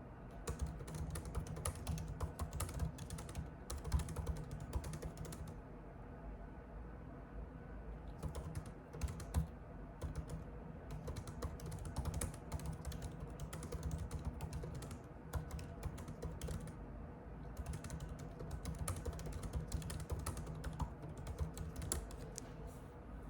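Typing on a computer keyboard: a fast, continuous patter of key clicks in runs, with a couple of brief pauses.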